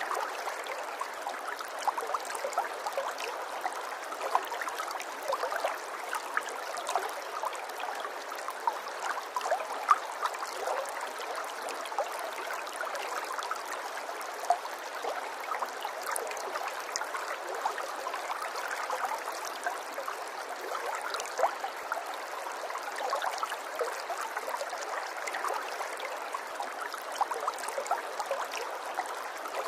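Running water of a small stream, flowing steadily with many small splashes and bubbling flecks of sound.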